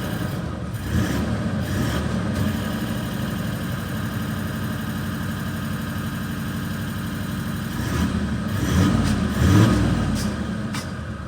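Toyota Land Cruiser 4.5-litre V8 turbo-diesel engine running steadily at idle, with short blips of the throttle about a second in, and the revs rising and falling again near the end.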